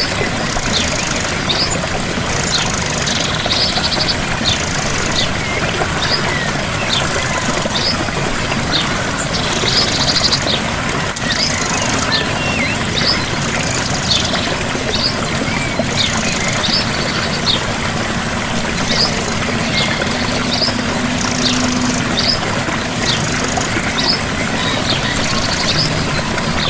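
Steady rush of a gentle waterfall, with a small bird singing over it: repeated short, high chirps about once a second, broken now and then by brief buzzy trills.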